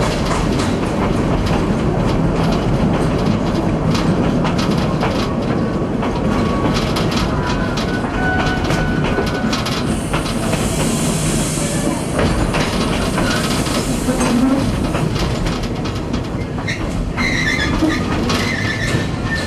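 Tweetsie Railroad's narrow-gauge steam train running along the track, heard from an open coach window: a steady rumble with wheels clicking over rail joints, mostly in the first half, a hiss about ten seconds in, and brief wheel squeals on the curve.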